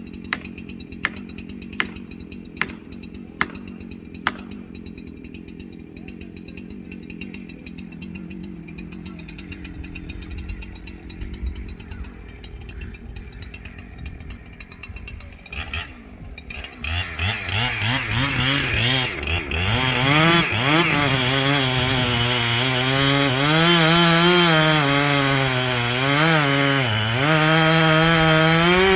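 Two-stroke chainsaw running. A few sharp clicks come in the first seconds over a low steady run. About two-thirds of the way in it is revved up, and its pitch then dips and recovers repeatedly as it cuts into the wood.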